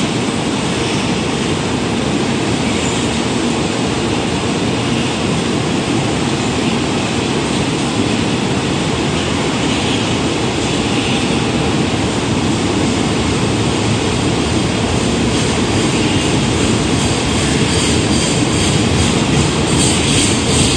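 JR Freight container train's loaded flatcars rolling past close by: a steady, loud rumble of steel wheels on rail. It grows a little louder near the end.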